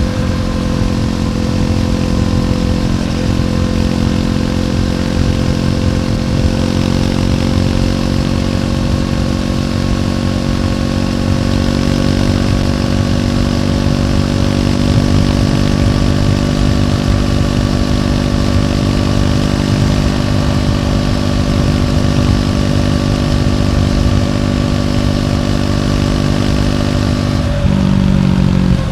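Triumph Scrambler 400X's single-cylinder engine running through its stock exhaust at a steady pace while riding. About a second before the end the engine note drops and changes briefly, then steadies again.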